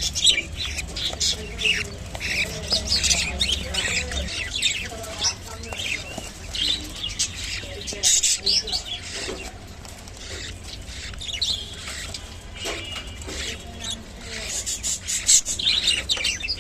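Budgerigars chirping and chattering, with many quick, high calls overlapping. Louder clusters of calls come about a second in, around eight seconds in, and near the end.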